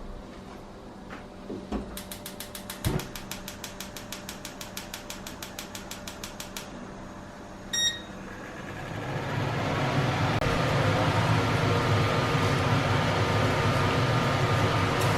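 Kitchen appliance being set and started: a quick run of clicks as a dial or control is turned, a single electronic beep, then the appliance starts running with a steady hum.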